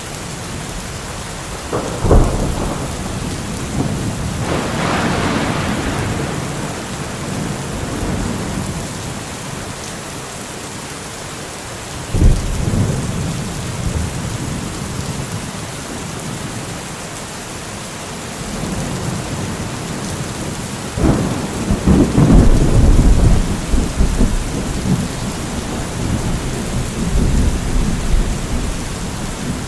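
Steady rain with thunder: sudden cracks about two and twelve seconds in, and a longer rolling peal from about twenty-one seconds in.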